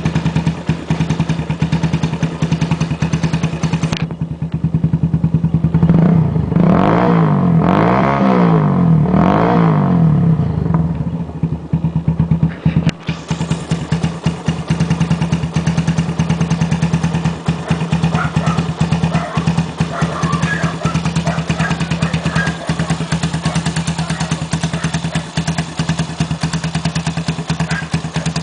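Bashan 150's engine running steadily through a custom muffler. Its sound turns duller about four seconds in, swells and shifts for a few seconds, and opens up again after a sharp click about halfway through.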